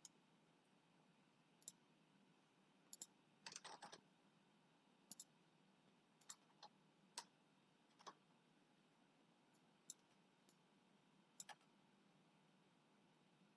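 Faint computer mouse and keyboard clicks: single clicks and pairs scattered throughout, with a quick run of several about three and a half seconds in.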